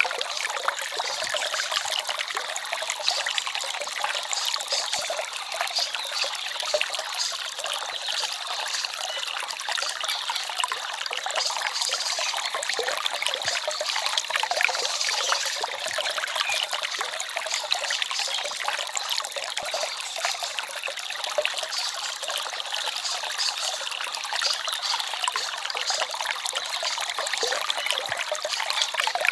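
Small forest stream babbling and trickling steadily: a light, splashy rush of water with little deep rumble.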